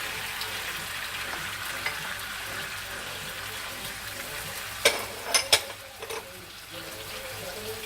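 Chicken pieces sizzling in a non-stick pan with soy sauce. About five seconds in come three or four sharp knocks, a utensil striking the pan, and after them the sizzle is a little quieter.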